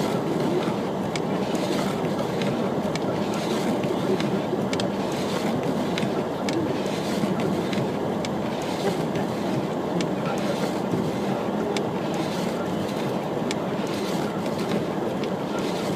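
Steady rumble and hiss of a vehicle on the move, with faint scattered ticks over it.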